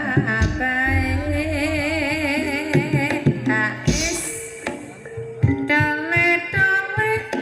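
Ebeg music from a live Banyumasan gamelan ensemble: a voice sings a wavering, vibrato-laden melody over held gamelan notes and frequent hand-drum strokes.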